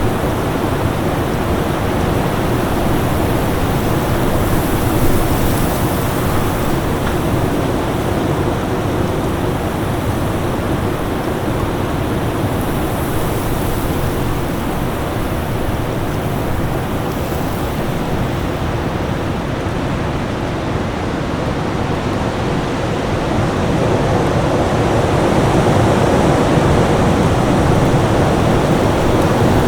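Winter storm ambience: a steady, dense rush of wind that swells slightly near the end.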